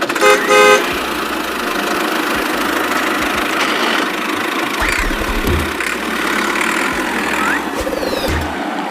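A vehicle horn toots twice, then a vehicle runs with a steady even noise.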